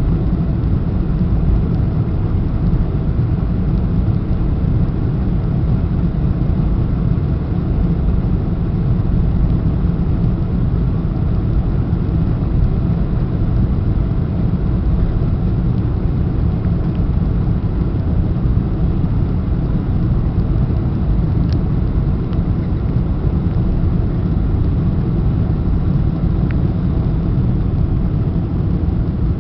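Steady low rumble and hiss of a Boeing 747-400 cabin in flight, with engine and airflow noise on the landing approach.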